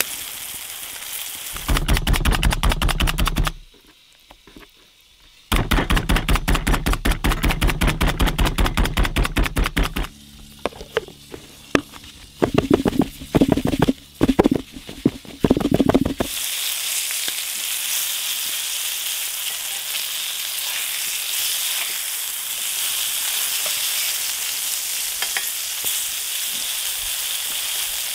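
Floured grouse breast pieces frying in moose fat in a cast iron skillet, a steady sizzle. For the first half it is covered by fast, even stirring strokes in a mixing bowl, which turn to slower, irregular knocks and stop about halfway through; after that the sizzle goes on alone.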